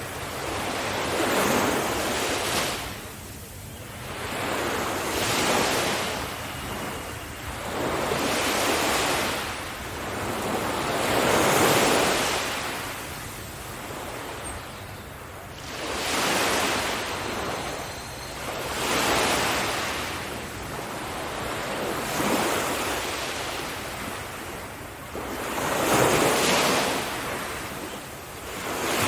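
Ocean waves breaking on a beach, one surge of surf after another about every three to four seconds, each swelling and washing back out.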